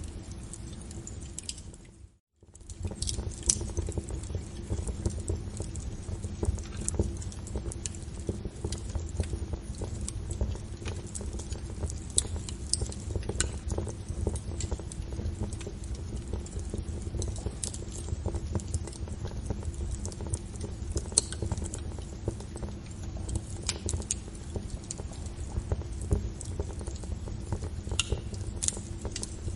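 Wood fire burning: a steady low rumble with frequent sharp crackles and pops at irregular intervals. The sound dips out briefly about two seconds in and then resumes.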